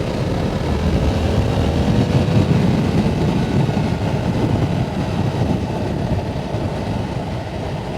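Yamaha R7's 689 cc parallel-twin engine running as the bike rides along, under heavy wind rush on the microphone; the engine note sinks slightly over the first couple of seconds.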